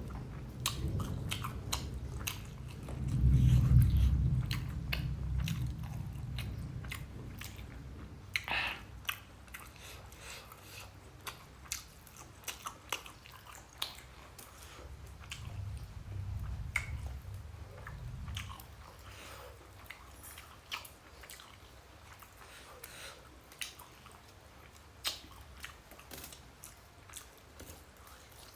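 A person chewing and eating rice with egg curry by hand, with many wet mouth clicks and smacks. A low rumble rises about three seconds in and again around the middle.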